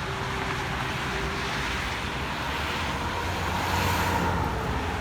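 Highway traffic passing: a steady rush of tyre and engine noise, swelling slightly about four seconds in.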